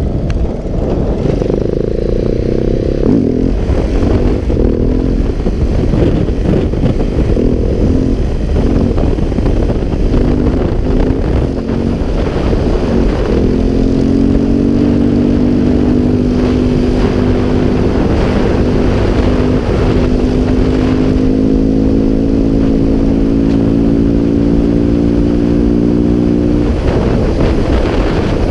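KTM 690 SMC R supermoto's single-cylinder four-stroke engine under way, its note changing with throttle and gears for the first half. From about halfway it holds a steady pull with the pitch slowly rising, then drops off suddenly near the end.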